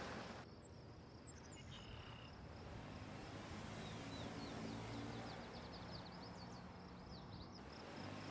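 Birds chirping, a few calls and then a quick series of short chirps, over a steady low engine hum from a car on the road. A louder wash of tyre and road noise is there briefly at the start and comes back near the end.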